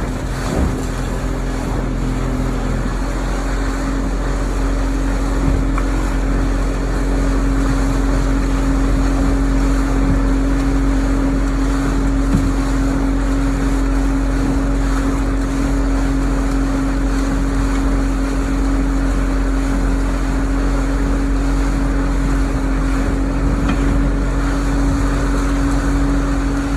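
Motorboat engine running steadily under way, a constant hum over the rush of wind and water. It grows a little louder over the first several seconds, then holds even.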